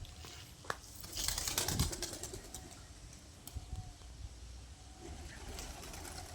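Doves, with a rustling burst of wing flapping a little over a second in and faint soft cooing after it.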